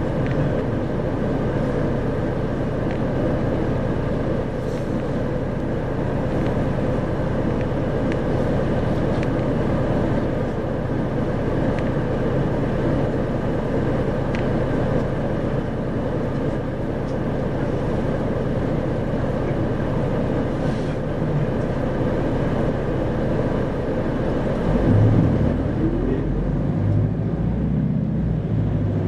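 Isuzu 2RG-LV290N4 diesel city bus under way, a steady engine drone mixed with road noise. About 25 seconds in, the low engine note changes and briefly grows louder.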